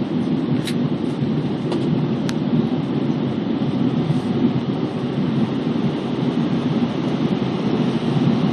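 Steady cabin noise inside an Airbus A320 on final approach: a constant low rumble of engines and airflow, with a few faint ticks in the first couple of seconds.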